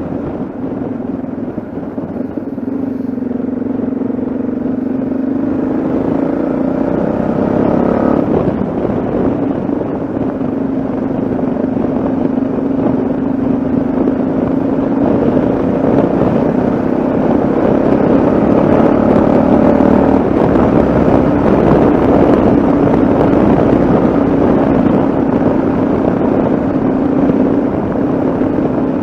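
Yamaha XT660Z Ténéré's single-cylinder engine running on the move with air rushing past: it climbs in pitch for about eight seconds, drops sharply at a gear change, then holds a nearly steady cruise.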